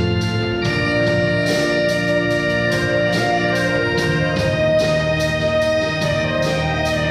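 Church orchestra playing an instrumental hymn: sustained chords over a steady beat, moving to a new chord about half a second in.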